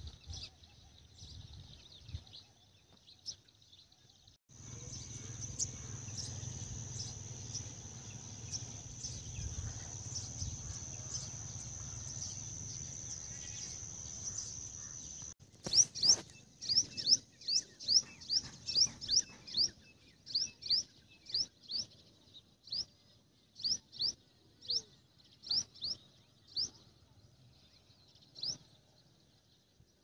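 Outdoor ambience: a steady high-pitched drone over a low rumble that cuts off abruptly about halfway through, followed by a bird giving short, sharp downward chirps, two or three a second at first and then sparser toward the end.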